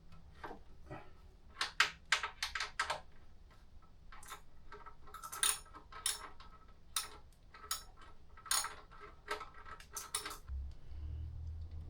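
Irregular metallic clicks and clinks of hand tools working on a motorcycle's exhaust fasteners while the exhaust is being unbolted.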